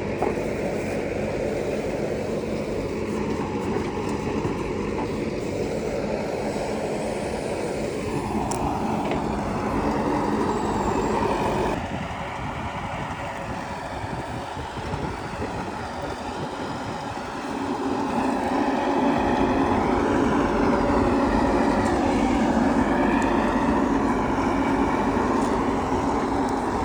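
Diesel engine of a JCB 3DX backhoe loader running as it works. It revs up about eight seconds in, drops back suddenly a few seconds later, then revs up again and holds for the rest of the time.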